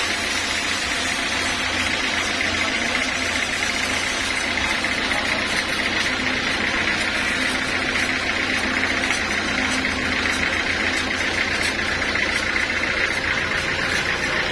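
Sawmill machinery running steadily, an engine-driven mill with a continuous mechanical noise and low rumble. From about four seconds in, faint regular ticks come about one and a half to two times a second.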